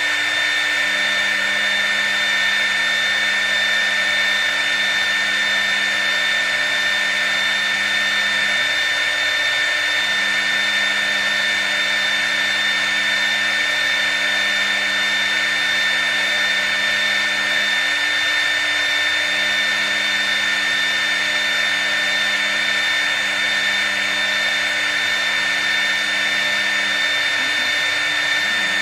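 CNC router spindle running at high speed with a steady high-pitched whine, its bit cutting into MDF as it engraves. A lower hum drops out briefly three times, about every nine seconds.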